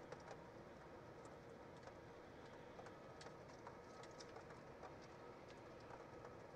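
Light rain falling: a faint steady hiss with many scattered drops ticking on the nest-box camera and housing.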